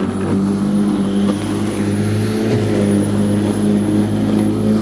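Black & Decker 1800 W electric rotary lawnmower running steadily through wet grass: a loud motor hum with a thin high whine, dipping briefly about halfway through as the motor takes the load.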